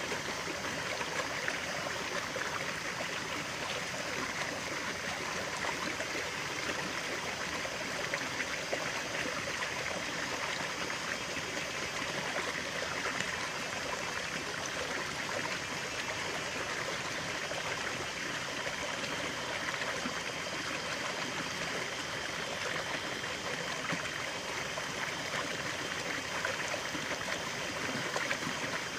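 Stream of water running steadily over rocks, an even rushing and trickling.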